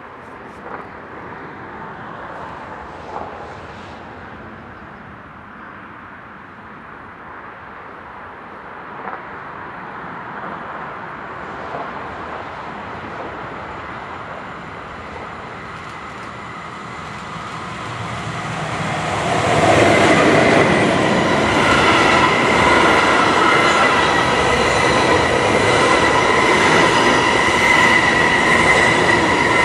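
A train approaching on the main line, its noise building slowly, then passing close by and loud from about two-thirds of the way in. The wheels on the rails give a steady high-pitched squeal over the running noise.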